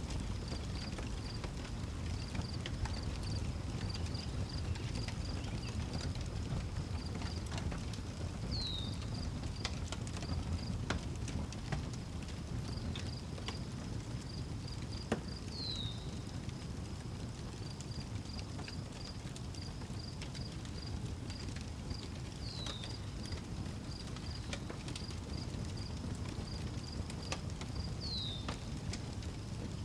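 Outdoor wood fire crackling with sharp pops over a steady low rumble, while crickets chirp in a fast, even pulse. A short falling chirp, from a bird or frog, comes four times, roughly every seven seconds.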